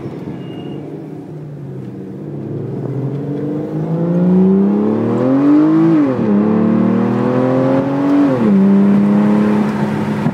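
Aston Martin DB9's V12 engine heard from inside the cabin, accelerating through the gears. The engine note rises for a few seconds, drops at an upshift about six seconds in, climbs again, drops at a second upshift, then holds steady.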